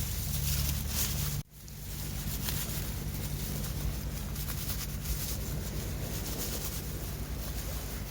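Outdoor wind buffeting the microphone in a low, steady rumble, briefly cut off about one and a half seconds in before it resumes.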